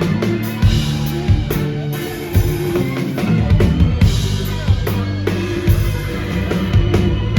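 Live rock band playing an instrumental passage: a drum kit keeping a steady beat with bass drum and snare hits under sustained bass and chord notes.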